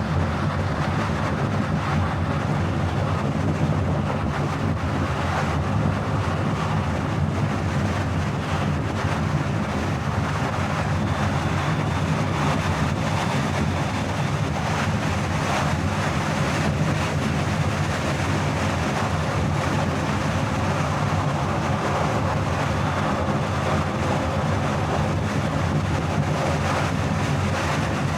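Car driving at a steady speed: an even rumble of tyres and engine with wind hiss, unchanging throughout.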